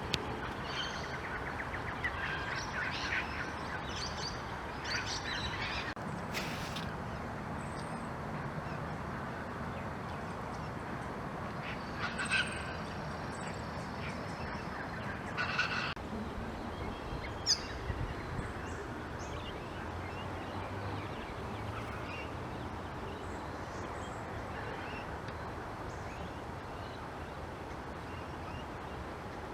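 Wild birds calling around a lake: scattered short calls and chirps, busiest in the first half and sparse later, over a steady background hiss.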